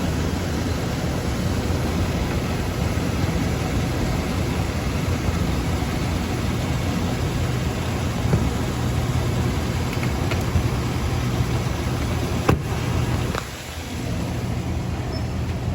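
Chevy Tahoe's engine idling steadily, with a low hum. Two sharp clicks come late on, followed by a brief dip in level.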